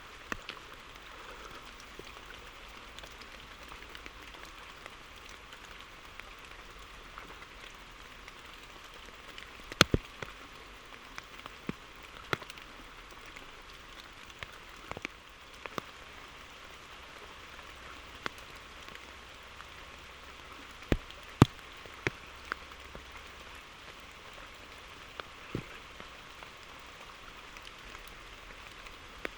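Steady rain falling, an even hiss, with scattered sharp taps and clicks throughout; the loudest are about ten seconds in and just past twenty seconds.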